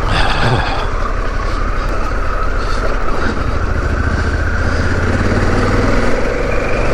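Harley-Davidson Pan America's 1250 V-twin engine running steadily at low speed as the motorcycle is ridden along a rough track, its pitch swelling slightly partway through.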